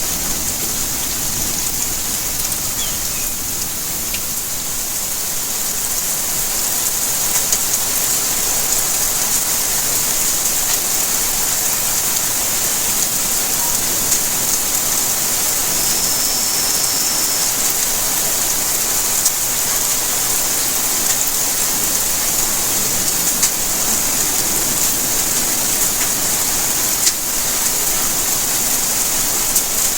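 Steady rainfall, an even hiss with scattered sharp drips and ticks of drops striking surfaces.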